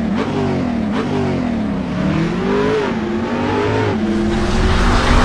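High-revving motorcycle engine through its exhaust, the revs dropping and climbing again several times, then holding steadier with small steps near the end.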